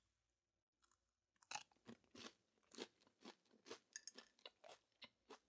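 Faint chewing of a bite of breaded plant-based chicken, starting about a second and a half in, with short mouth sounds about two a second.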